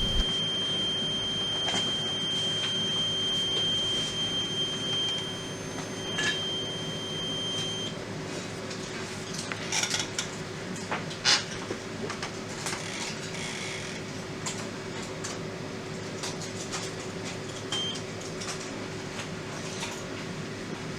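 Graviner Mk6 oil mist detector alarm sounding a steady high-pitched tone, set off by test smoke sprayed on a detector head. The tone cuts off about eight seconds in, then a few short clicks and knocks follow over a steady low hum.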